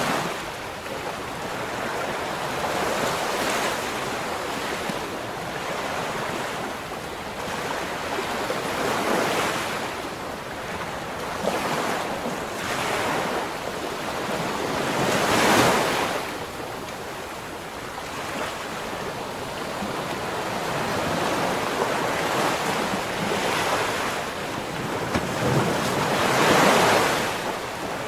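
Ocean waves breaking and washing up the shore in repeated swells, the loudest surges about halfway through and near the end.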